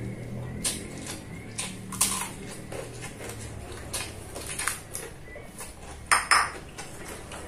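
Close-up eating sounds of a mouthful of rice and fu yung hai taken by hand: wet chewing and lip smacks, with scattered sharp clicks, the loudest a quick pair about six seconds in.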